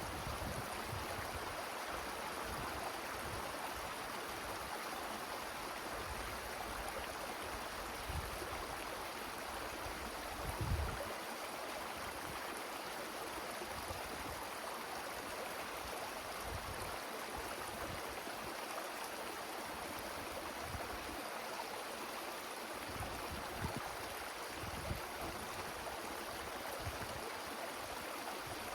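Wind blowing through forest trees: a steady rushing hiss, with irregular low gusts buffeting the microphone, the strongest about ten seconds in.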